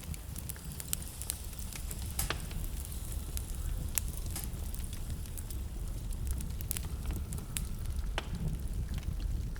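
Wood burning in a fireplace, crackling with irregular sharp pops over a steady low rumble.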